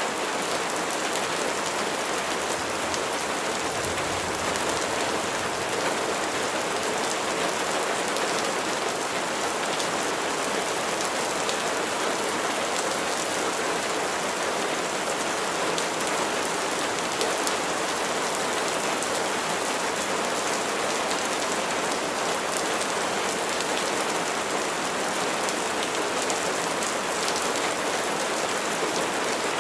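Steady rain falling, with dense pattering of raindrops on a surface.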